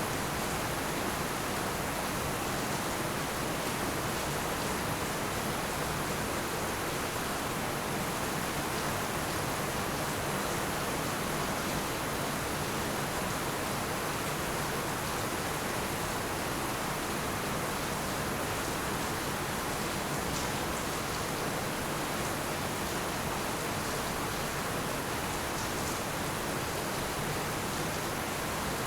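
Heavy rain falling steadily in a dense, even hiss with no separate drops, thunder or changes.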